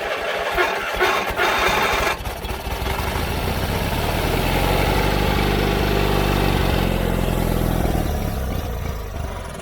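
John Deere 317 riding mower's Kohler twin-cylinder engine being started: a rough start for about the first two seconds, then it catches and runs steadily, its sound falling away near the end. It is a mower that quits and will not stay running because of a plugged carburetor.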